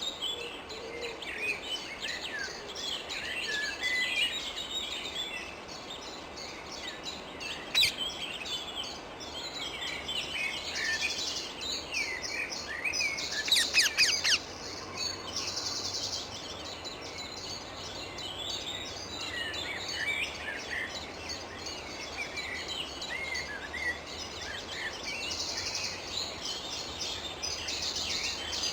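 Wild rose-ringed (Indian ringneck) parakeets calling, with many short chirping calls throughout and a loud burst of rapid harsh notes about halfway through. Higher buzzy trills come and go every few seconds.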